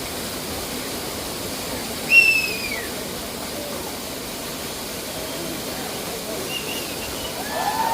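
Steady rushing noise of a waterfall. About two seconds in, one short high cry falls in pitch over the water, and voices begin near the end.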